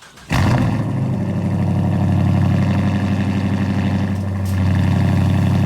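Dodge Charger R/T's 5.7-litre Hemi V8 running steadily at about idle. It comes in suddenly just after the start and swells slightly near the end.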